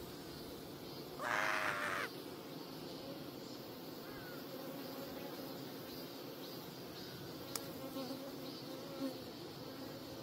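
Korean native honeybees buzzing steadily as a colony. About a second in, a louder, higher-pitched sound lasts under a second, and a single sharp click comes near the end.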